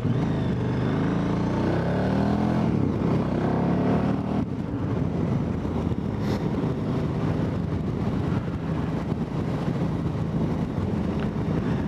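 KTM 990 Adventure motorcycle's V-twin engine running on the move. Its pitch sweeps down and up over the first few seconds, then holds steadier.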